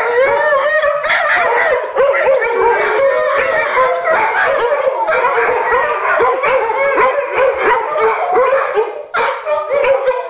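Several pit bulls howling and yipping together in a loud, unbroken chorus of overlapping, wavering cries.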